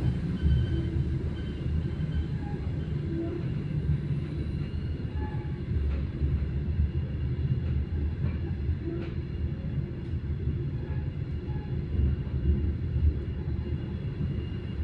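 Passenger train carriage rolling along the track, heard from inside: a steady low rumble with a few faint knocks from the wheels and car.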